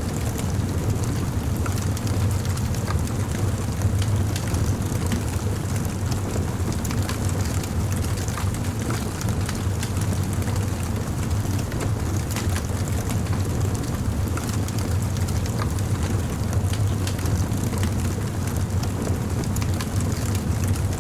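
Wood fire burning, with many small irregular crackles and pops over a steady low rumble of the flames.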